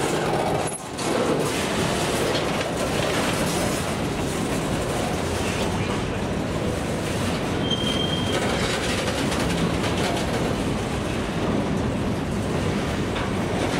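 Freight train of tank cars, boxcars and covered hoppers rolling past close by: steady noise of steel wheels running on the rails, with a brief high wheel squeal a little after halfway.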